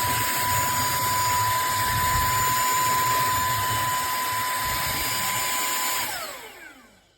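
Cordless handheld vacuum cleaner running with a steady rush of air and a high whine. About six seconds in it is switched off, and the motor winds down with a falling pitch until it stops.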